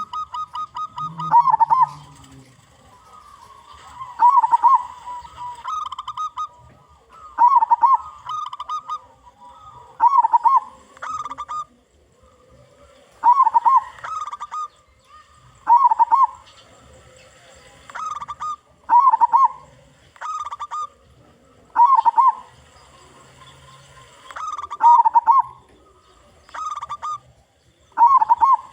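Zebra dove (local perkutut) cooing, with a loud phrase roughly every three seconds and softer phrases in between.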